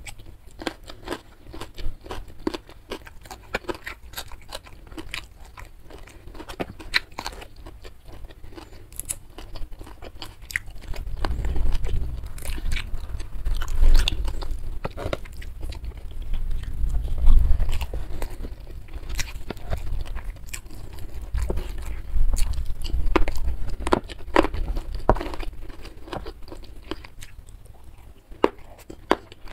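Close-miked chewing and biting: many quick wet mouth clicks and crunches of a person eating rice, squid and fried salted fish by hand. A low rumble builds under the chewing through the middle stretch and fades near the end.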